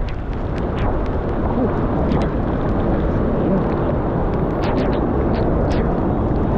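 Wind buffeting the camera microphone while cycling through rain, a steady low rumble. Many short sharp ticks, like raindrops striking the microphone or camera housing, are scattered through it.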